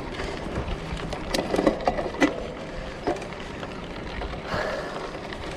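Riding a bicycle on a trail: a steady low rumble of wind and rolling noise, with a few sharp clicks or knocks from the bike about halfway through.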